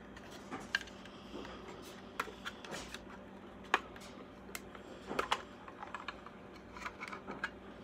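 Scattered small clicks and taps from a die-cast model car being handled and turned over in the hands, the sharpest a little under four seconds in and a short cluster after five seconds.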